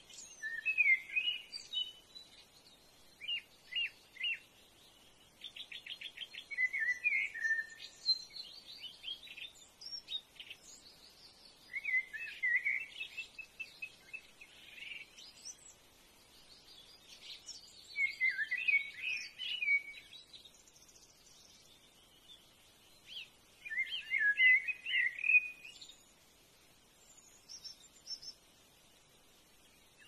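Wild birds singing: short, high, warbling phrases every few seconds, with quiet gaps between them. One phrase is led by a fast run of ticks.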